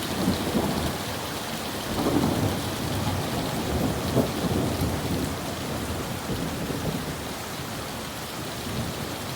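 Rain pouring steadily while thunder rumbles, the rumble swelling again about two seconds in and around four seconds, then fading away.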